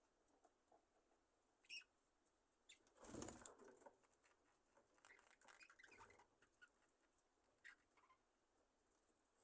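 Budgies in a quiet aviary: a short flurry of wing flapping about three seconds in, then a few soft rustles and faint ticks as the birds shift about.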